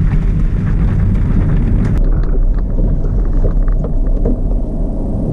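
Daihatsu Hijet Jumbo kei truck driving over a rough, stony forest road: a steady low rumble of engine and road noise with scattered knocks and rattles. A higher hiss drops away about two seconds in.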